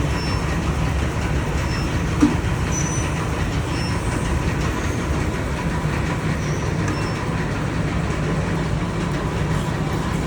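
Steady low machine rumble with a faint constant tone, from an SPB-TB5 induction melting furnace and its equipment running on test. A single short knock about two seconds in.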